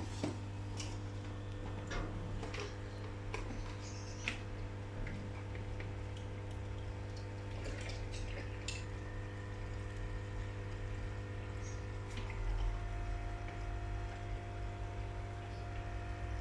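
Steady low hum of running aquarium equipment, with water trickling and scattered light clicks, most of them in the first half.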